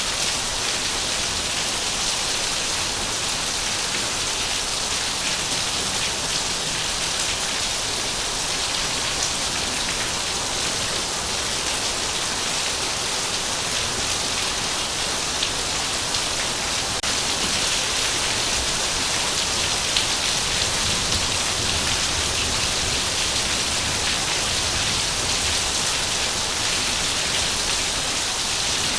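Heavy rain falling steadily, a dense even hiss of drops with a few sharper individual drop hits.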